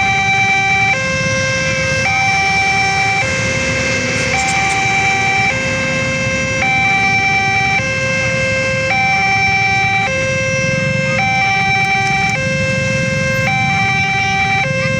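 Level-crossing warning alarm sounding an electronic two-tone signal, a lower and a higher tone taking turns about once a second, which warns that a train is approaching and the barrier is down. A low traffic rumble runs underneath.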